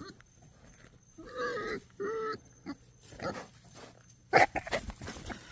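Pet pig vocalising: two short pitched calls about a second in, then lower calls and a sudden loud sound about four seconds in.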